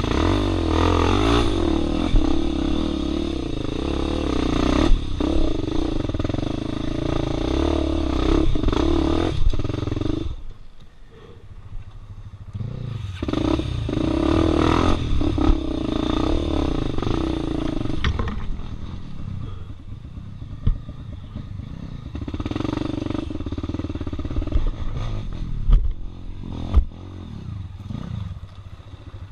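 Dirt bike engine revving hard in bursts and easing off, dropping back twice, with clattering knocks from the bike working over rough ground.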